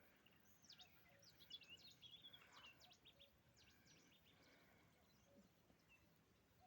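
Faint birdsong: a quick series of high chirps, each sweeping sharply downward, over the first three seconds or so, then only a faint steady hiss of the outdoors.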